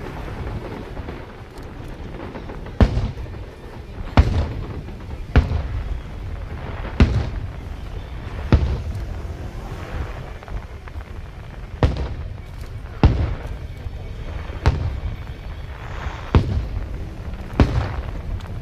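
Aerial fireworks shells bursting in a steady series: about ten sharp bangs one to two seconds apart, each trailing off in a low rumbling echo, over a continuous low rumble.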